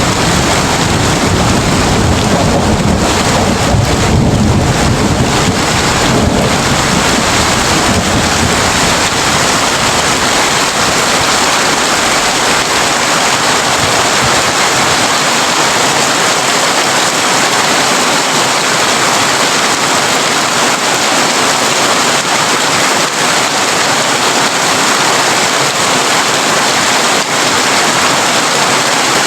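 Heavy rain falling steadily on a tin roof, a dense even hiss. A low rumble of thunder fades away over the first ten seconds or so.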